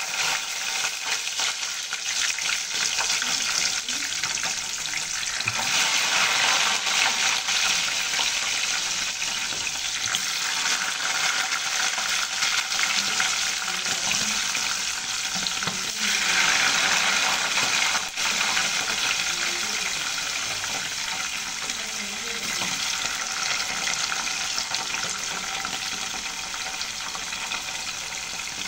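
Food frying in hot cooking oil: a dense, steady sizzling that starts abruptly as the food goes into the oil, swelling louder around six seconds in and again around sixteen seconds.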